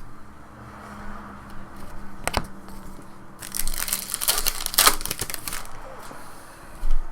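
Crinkling of a trading-card pack wrapper being handled, with a dense run of crackling about halfway through, a single click before it and a low thump near the end.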